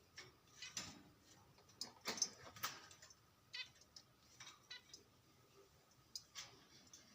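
Zebra finches calling: a scattered series of short, nasal calls, several close together around two to three seconds in.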